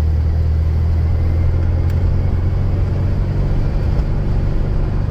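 1972 Volkswagen Beetle's air-cooled flat-four engine running steadily under way, heard from inside the cabin as a loud, even low drone.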